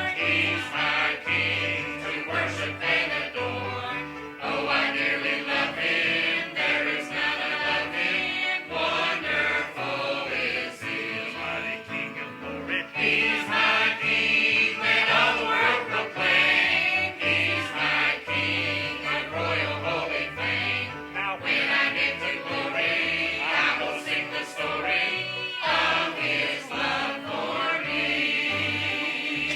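Church choir singing a gospel song over instrumental accompaniment with a steady bass line.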